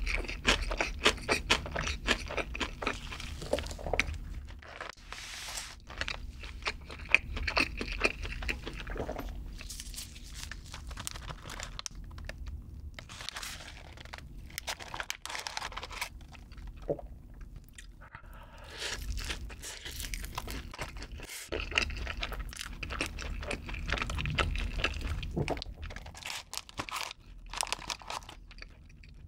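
Close-miked eating sounds: wet chewing and crisp crunching of food in the mouth, with a fork clicking and scraping among garlic butter fries in a foil-lined paper box.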